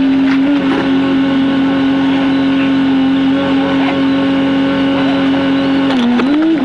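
Jeep engine sped up sixfold by the time-lapse, heard as a high, steady whine that climbs in pitch near the end as the throttle opens.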